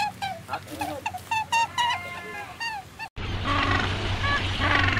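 For about three seconds, a rapid string of short, pitched honking calls, many in quick succession. These cut off abruptly and give way to a louder, dense din of African penguins calling in a group.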